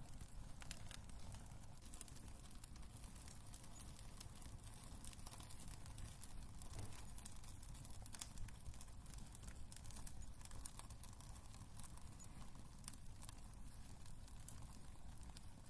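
Wood fire crackling in a fireplace: irregular small pops and snaps over a low, steady rumble.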